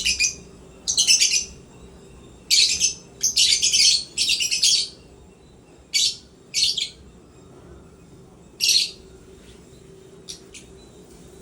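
Lovebirds giving shrill, chattering chirps in short bursts. The calls come thick in the first five seconds, then every second or two, with quiet gaps and a last faint chirp about ten seconds in.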